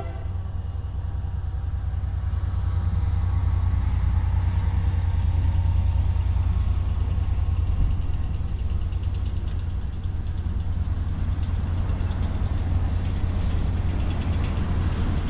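Freight train passing: CSX diesel locomotives' steady low rumble, then a string of covered hopper cars rolling by. Faint rapid clicks of wheels over the rail joints come in the second half.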